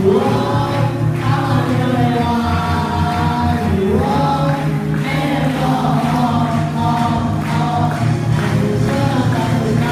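Music: a choir of voices singing together, holding notes over a steady accompaniment, with a voice sliding up in pitch about four seconds in.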